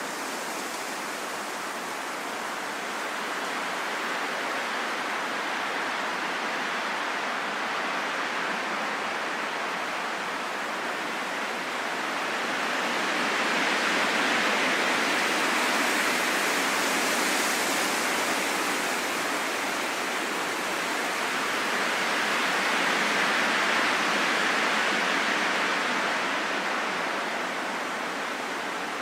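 Wind rushing steadily, swelling into two long gusts in the second half that each rise and ease over several seconds.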